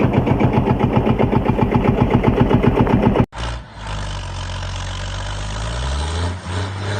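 Small engine chugging at about eight beats a second, which cuts off abruptly about three seconds in. A steadier motor sound follows, rising in pitch partway through.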